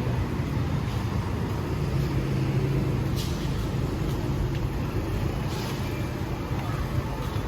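City street traffic: a steady rumble of passing vehicle engines, with two short hissing swooshes about three and five and a half seconds in.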